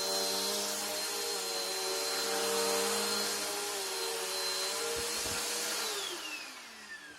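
Bissell Power Force bagged upright vacuum cleaner running steadily with a high whine, then switched off about six seconds in, its motor spinning down with falling pitch.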